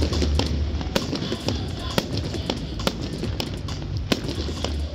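Fireworks going off in a steady string of sharp bangs and pops, about two or three a second, as rockets climb and burst overhead. Loud music with a heavy bass plays underneath.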